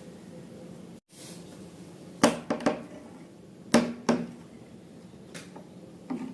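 A series of sharp taps and clicks, several close together, over a steady low hum, with a short sudden dropout in the hum about a second in.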